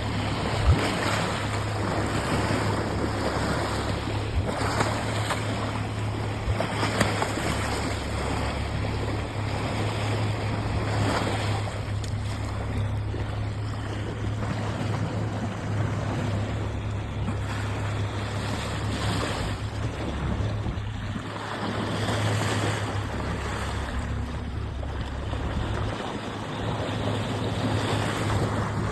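Motorboat running steadily, with water rushing past the hull and wind on the microphone.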